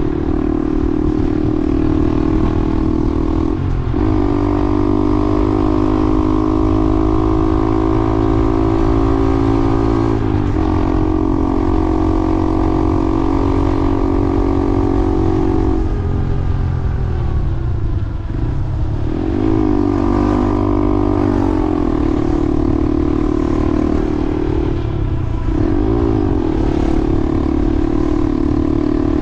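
Vehicle engine running while driving along, with road rumble; the engine's pitch steps up or down abruptly several times, as with gear changes or throttle changes.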